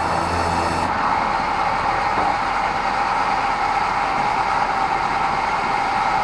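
Sawmill band saw running steadily, with a strong steady whine. About a second in, the deeper hum and the hiss drop away.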